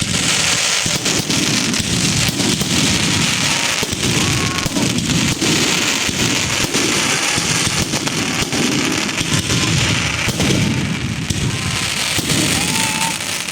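Fireworks going off in a dense, continuous barrage: many sharp crackles over a steady low rumble of booms.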